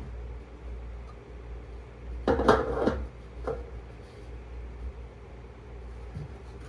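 A short burst of metallic clatter and knocks about two seconds in, then a single knock, over a faint low hum: metal parts of the generator being handled while it is readied to start.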